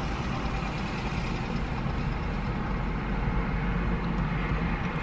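Steady low rumble of an idling car engine heard from inside the cabin.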